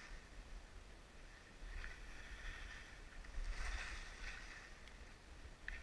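Faint hiss of sliding over snow, rising twice, about two seconds in and again around four seconds, over a low steady rumble of wind on the helmet camera's microphone.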